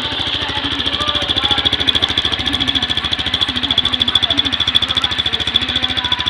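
Honda CG 150 Fan's single-cylinder four-stroke engine idling, a steady rapid beat of exhaust pulses that grows a little louder and more uneven about a second in.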